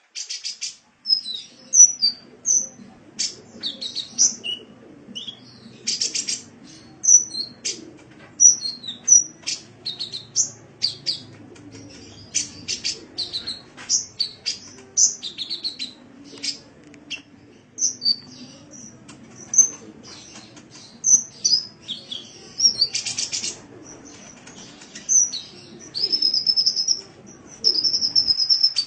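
Sunbird song: a fast run of high, sharp chirps, short sweeping notes and twittering trills, broken by a few buzzy rattles, ending in a steadier high trill over the last few seconds.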